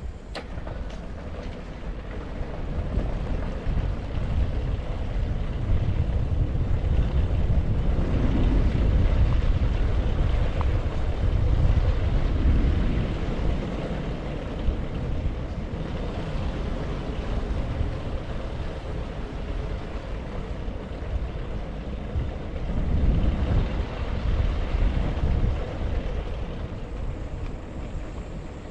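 Wind rushing over the microphone of a bicycle-mounted GoPro Hero9 while riding: a steady low rumble that swells twice, once in the middle and again near the end.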